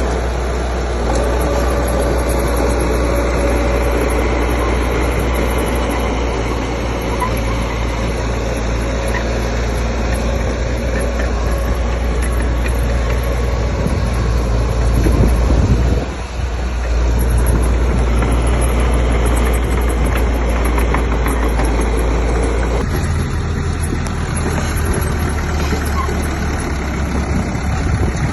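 Diesel engines of heavy earthmoving machinery (dump truck and bulldozer) running steadily. The level dips briefly about halfway through, and the engine note changes about two-thirds of the way in.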